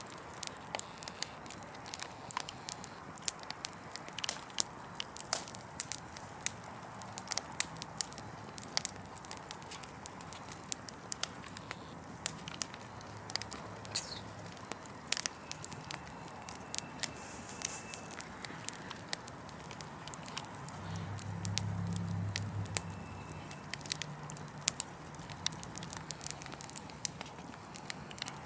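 Wood fire crackling: frequent sharp pops and snaps over a steady soft hiss. A low hum rises and fades about three quarters of the way through.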